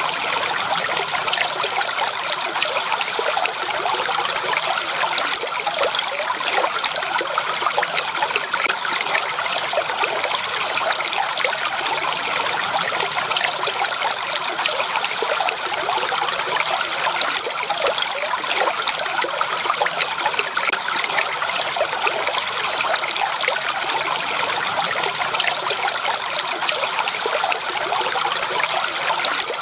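Flowing water: a stream trickling and splashing steadily over stones, an even rushing burble with many small splashes.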